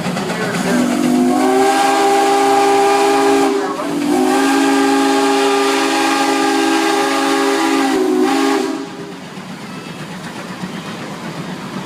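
Steam traction engine's whistle blowing a chord of several notes in two blasts, a shorter one of about three seconds and then a longer one of about five, over hissing steam; the hiss carries on more quietly after the whistle stops.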